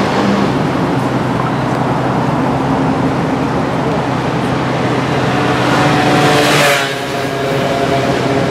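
Pagani Huayra's twin-turbo V12 running at low speed as the car pulls slowly away. A rushing noise builds up over about a second near the end, then cuts off suddenly.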